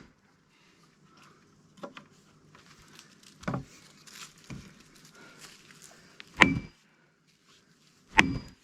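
Axe blows on a log being split for firewood: about five irregular strikes, light at first, the two heaviest near the end, each followed by a brief metallic ring.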